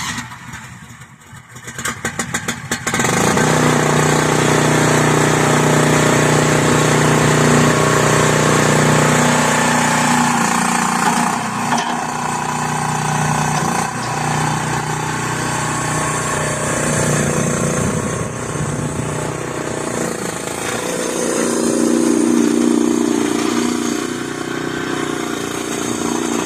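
Small gasoline engine of a 15 hp mini skid steer loader, cranked with rapid clicks and catching about three seconds in. It then runs steadily while the machine is driven forward and back and its controls are worked, with the engine note changing under load and throttle.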